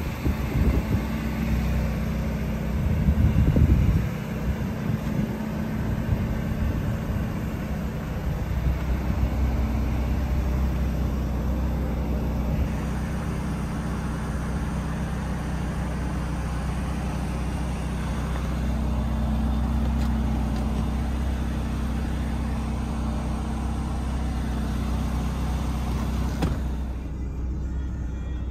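Ferrari California T's twin-turbo V8 idling steadily in neutral, heard through the open driver's door. Wind buffets the microphone during the first few seconds.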